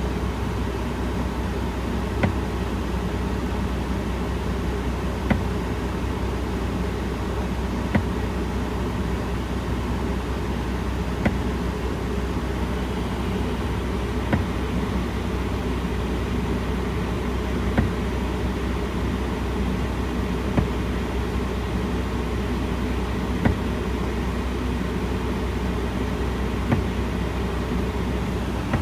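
Truck's diesel engine idling steadily, with a sharp click about every three seconds.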